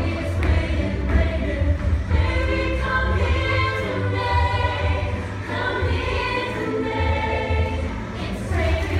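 Music: a group of voices singing together in a choir-like sound.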